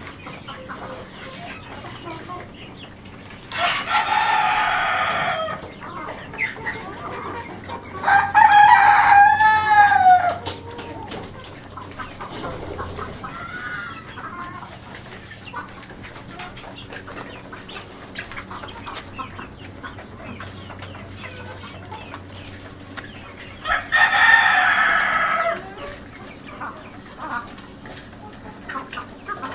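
Chickens: a rooster crowing, with three loud calls of about two seconds each, the loudest about eight seconds in, and hens clucking in between.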